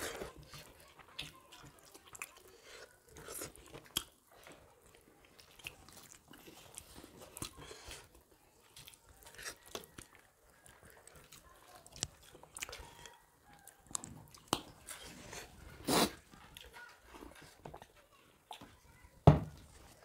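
Close-miked eating: scattered wet chewing and lip-smacking of rice and soya chaap curry eaten by hand, with fingers working the food on steel plates. A sharper click about three quarters of the way through and a louder thump just before the end.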